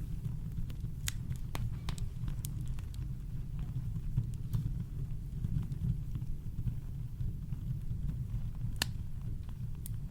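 Campfire crackling: sparse sharp pops and snaps, the strongest about nine seconds in, over a steady deep low rumble like brown noise.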